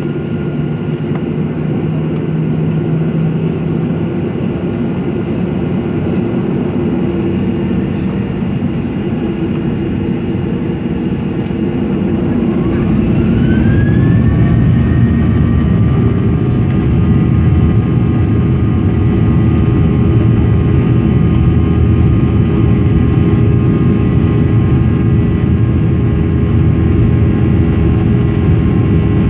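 Boeing 737-900ER's CFM56-7B turbofan engines heard from inside the cabin: a steady engine hum, then about twelve seconds in a rising whine as the engines spool up to takeoff thrust, after which the engine noise stays louder and steady with high whining tones over it.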